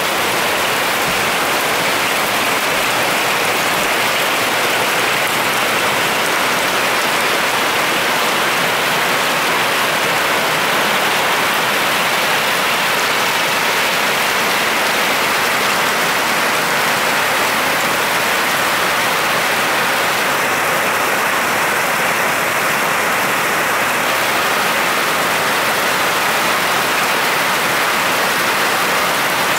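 Heavy rain pouring down, a loud, steady, even hiss of drops hitting the pavement.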